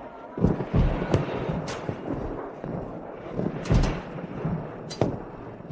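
A series of heavy booming impacts, about six irregularly spaced over a few seconds, each with a deep thud under a sharp crack.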